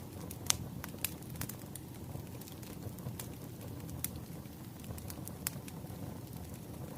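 Bonfire burning: a steady low rumble of flames with irregular sharp crackles and pops of burning wood, one loud pop about half a second in.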